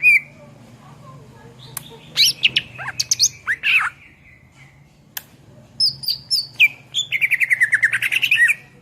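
Greater green leafbird (cucak ijo) singing in an active, full-voiced mood: a varied string of sharp whistles, chips and slurred notes, ending in a fast run of repeated notes at about nine a second.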